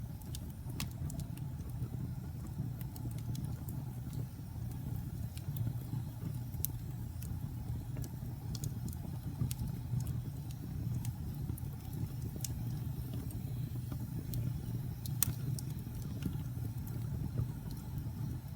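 Wood fire burning in a fireplace: a steady low rumble of the flames with irregular sharp crackles and pops, one louder snap near the end.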